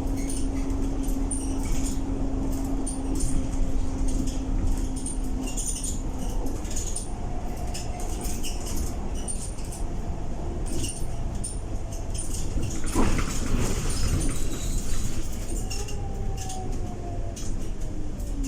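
Inside a Scania K230UB bus under way: the engine and ZF automatic gearbox drone with a whine that holds steady, drops out about a third of the way through, then comes back gliding up and down in pitch, while interior panels rattle and click. A brief squeak sounds about two-thirds through.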